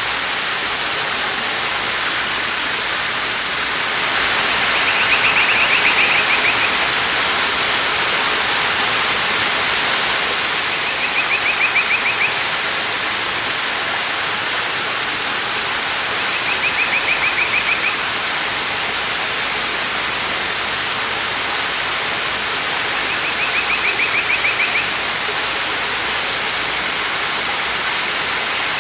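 Waterfall rushing steadily, with a bird's short, rapid trill repeated four times, about six seconds apart.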